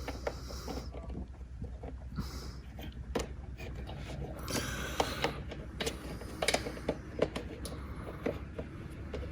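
Irregular small metal clicks, taps and scrapes of Allen bolts, nuts and an Allen key being handled and threaded in loosely under an ATV's plastic body panel, with a short scraping rustle about halfway through.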